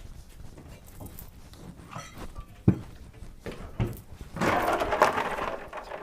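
A sharp knock, a second knock about a second later, then about a second of dense rattling clatter, amid scattered small clicks.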